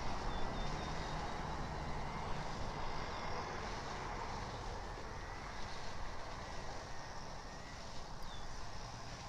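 Steady outdoor background rumble of distant vehicle traffic, with a few faint high bird chirps, one a quick falling call near the end.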